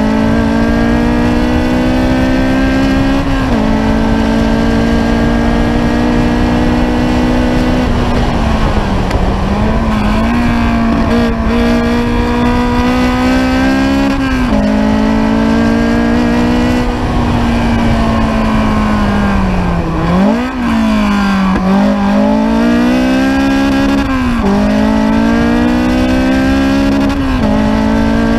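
Ariel Atom's engine under hard acceleration, heard onboard: its pitch climbs steadily and drops sharply at each upshift, four times in all. Twice, near the middle and about two-thirds in, it falls away and wavers as the car brakes and downshifts for a corner, then climbs again.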